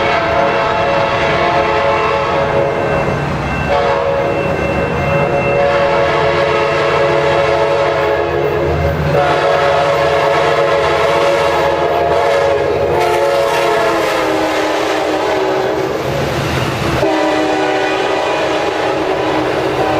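Nathan K5LA horn on an Amtrak Pacific Surfliner F59PHI diesel locomotive, sounding a string of long chord blasts broken by short gaps about every four seconds, over the low rumble of the locomotive.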